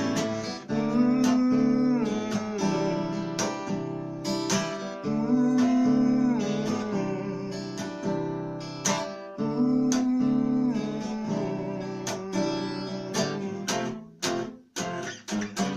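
Fender CD-60S acoustic guitar strummed in the instrumental break of a song, chords ringing in a steady rhythm. Near the end the strumming thins to a few separate strokes.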